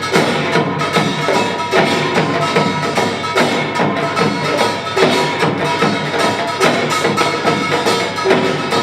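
Korean pungmul folk percussion ensemble of drums and gongs playing a fast, driving rhythm, with dense repeated strikes over a steady metallic ringing.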